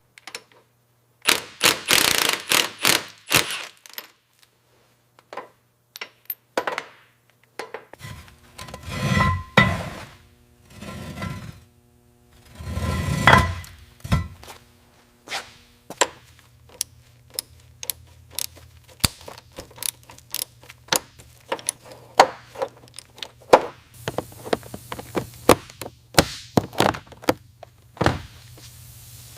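Irregular knocks, thunks and clatter, with louder clusters of strikes a few times. A steady low hum runs under it through the middle.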